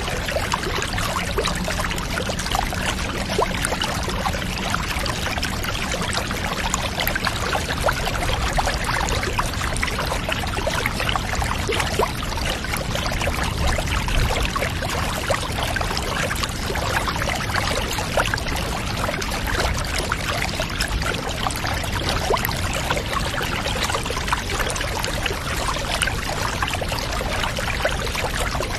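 Water pouring and trickling steadily, as when a bath is filled from a running tap.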